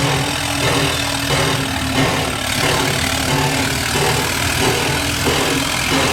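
QR C17 class steam locomotive working, with a steady low hum under a regular beat a little under two times a second.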